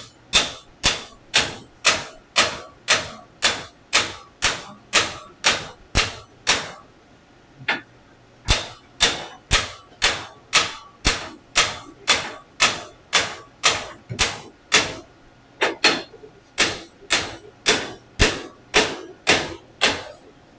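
Hammer blows on metal: a steady run of sharp, ringing strikes about two a second, with two short pauses, driving a gear onto a VW air-cooled engine's crankshaft.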